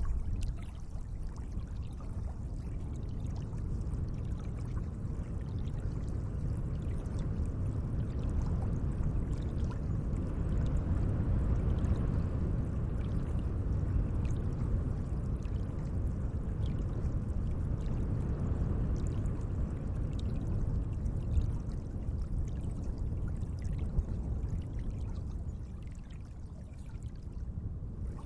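Gentle lake water flowing and trickling in a steady, low wash, dipping slightly in level near the end.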